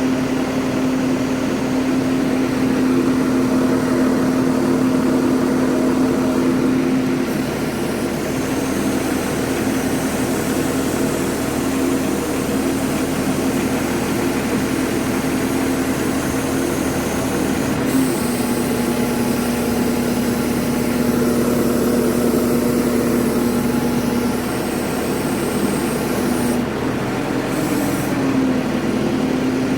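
Engine of a truck-mounted crane running steadily with a strong, even hum, its tone breaking and shifting slightly a few times.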